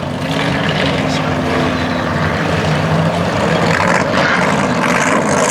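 Race car engines running on the speedway oval, a steady drone that rises and falls slightly in pitch as the cars go around.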